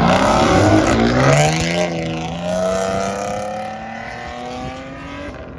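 Car engine accelerating hard. Its pitch rises, drops with a gear change about a second and a half in, then climbs steadily again as it fades into the distance.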